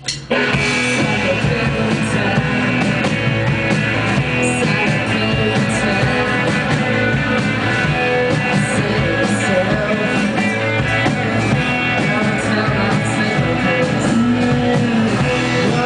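Rock band playing live, with a drum kit and guitar coming in together just after the start and then playing steadily.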